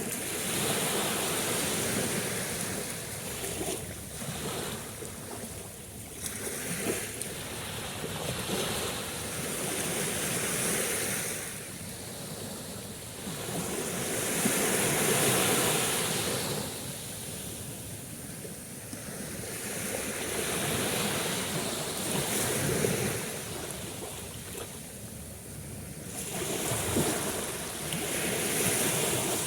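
Sea waves washing in and receding, the surf swelling and fading about every four to six seconds.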